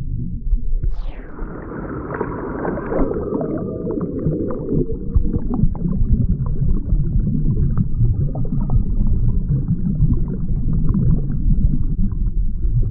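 Muffled, low rumbling and gurgling water noise, like a stream or small waterfall, with a falling whoosh about a second in.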